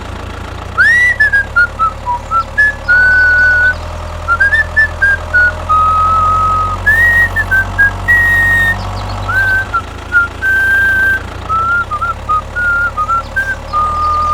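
A person whistling a tune of short and held notes, over a steady low engine hum.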